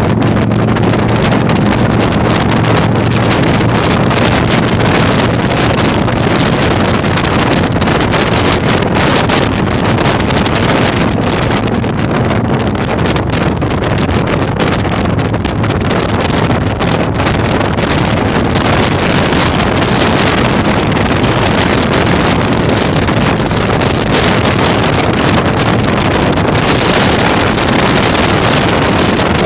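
Heavy wind noise buffeting the microphone on a moving Yamaha Virago 1100 motorcycle, with the low, steady note of its V-twin engine underneath, clearer in the first half.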